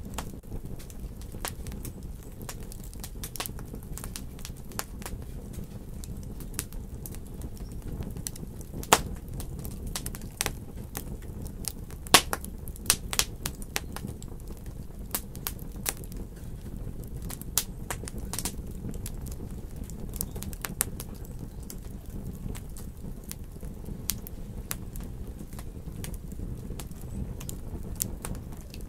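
Wood fire crackling in a fireplace: a steady low rumble of flames with irregular sharp pops and snaps, the loudest about 9 and 12 seconds in.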